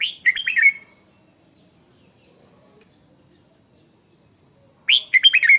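Red-whiskered bulbul singing two short, quick whistled phrases, one at the start and one about five seconds later. A steady, thin, high-pitched tone runs underneath.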